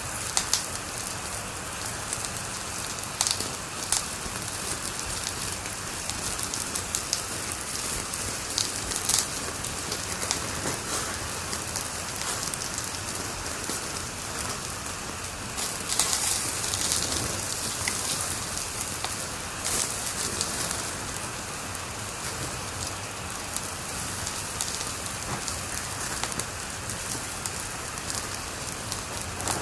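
Wood fire crackling in a fireplace: a steady hiss with frequent sharp pops and snaps, a denser run of louder pops about sixteen seconds in.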